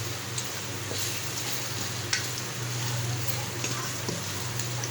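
Chicken and ground spices frying in oil in a pan, sizzling steadily as the masala is stirred (bhuna), with a few sharp clicks of the spoon against the pan over a steady low hum.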